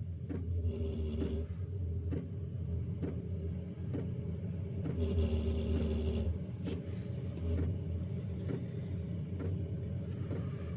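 Chinese diesel air heater running as it ignites: a steady hum from its fan and burner, with the fuel dosing pump ticking about once a second. A brief hiss comes about five seconds in.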